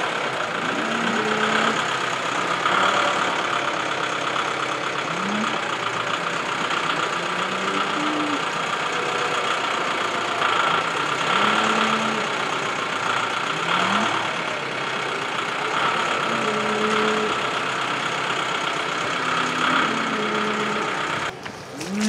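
A vehicle engine running steadily at idle, with short pitched calls sounding over it every second or two.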